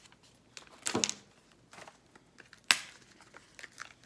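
Rolls of stickers being handled on a table: a short rustle about a second in, then one sharp tap or click a little before three seconds, with a few small ticks between.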